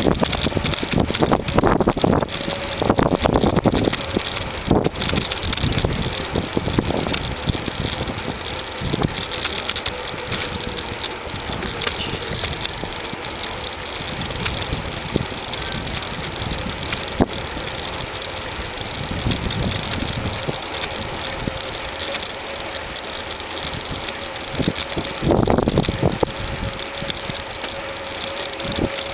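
A bicycle rolling along, heard through a camera mounted on the bike: a steady rush of wind and road noise with scattered small knocks and rattles. It gets louder in gusts in the first few seconds and again near the end.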